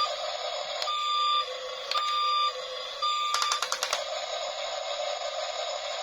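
Electronic beeps and sound effects from a battery-powered radio-controlled toy excavator truck: three short two-note tones about a second apart, then a burst of rapid clicking about halfway through, over a steady hiss.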